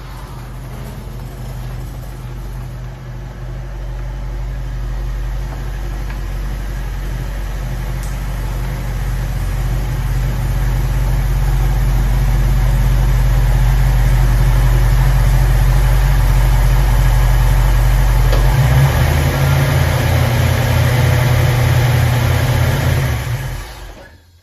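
A car engine runs steadily with a deep, low drone that grows louder over the first half. Near the end its note changes to a pulsing beat, and then the sound fades out.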